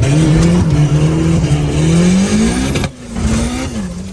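Turbocharged Honda B16 four-cylinder in an EG Civic hatch accelerating hard through its new exhaust. The engine note rises steadily for almost three seconds, then drops sharply and runs on at a lower pitch.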